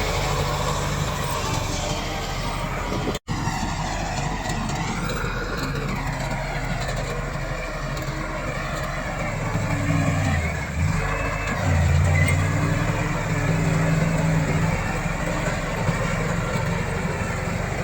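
Komatsu D68 bulldozer's diesel engine running under load, its pitch sagging and then recovering around ten and twelve seconds in. The sound cuts out for an instant about three seconds in.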